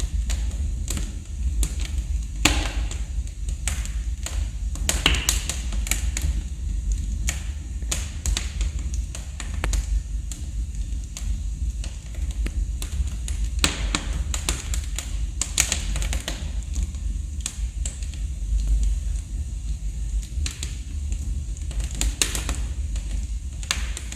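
Wood fire burning in a fireplace, crackling with irregular sharp pops and snaps, several a second, some louder than others, over a steady low rumble of the flames.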